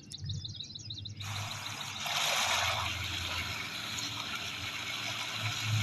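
Water rushing or pouring in a steady, dense stream that starts abruptly about a second in. Before it, a bird chirps rapidly several times a second.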